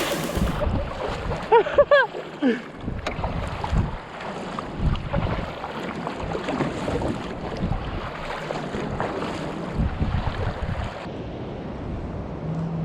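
Wind buffeting the microphone over sea water washing around a kayak on the open ocean. About two seconds in, a few short wavering calls with a falling pitch stand out.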